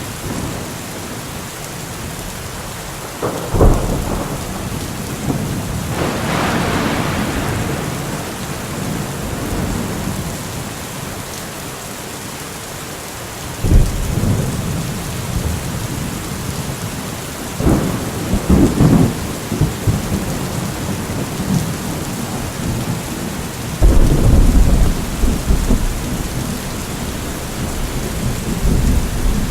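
Steady rain falling, with thunder breaking over it several times. Sharp claps and rolling rumbles come about 4, 14, 18 and 24 seconds in, and a longer, higher rumble follows at about 6 seconds.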